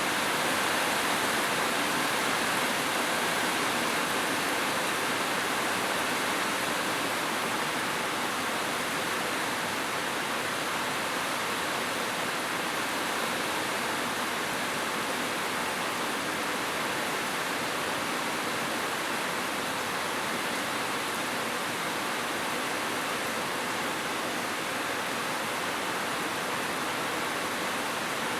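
Heavy rain falling steadily on a roof, an even continuous hiss with no thunder.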